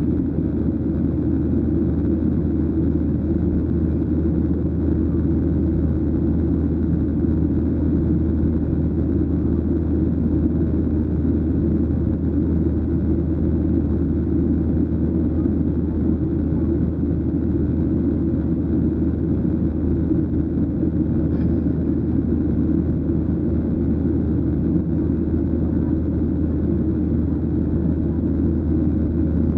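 Steady low rumble inside the cabin of a Boeing 737-800 in flight: the hum of its CFM56 engines and the rush of air along the fuselage, holding an even level.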